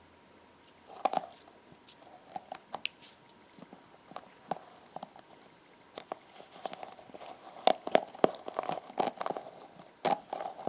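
Hairbrush being handled, its bristles scratched and tapped: irregular clicks and short scratchy strokes that come thicker from about halfway through.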